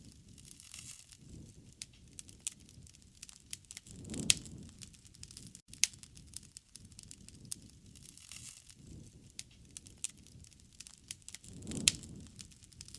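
Wood fire crackling: frequent sharp pops and snaps over a low rumble of flames that swells twice, about four seconds in and near the end.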